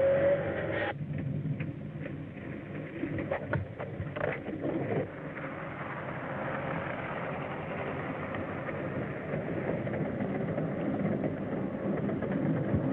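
A vehicle engine running steadily, with a few sharp knocks in the first few seconds.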